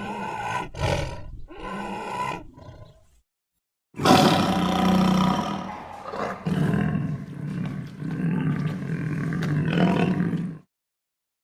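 Tiger vocalizing: a short growling call of about three seconds, then, after a brief gap of dead silence, a longer roar of about six and a half seconds that is loudest at its start and cuts off abruptly.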